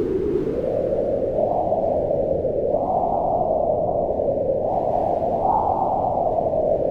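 Wind blowing steadily, a low rushing sound that swells and eases in slow gusts, rising in pitch a few times before settling back.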